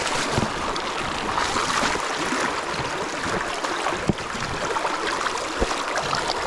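River water running steadily, with a couple of short thumps about four and five and a half seconds in.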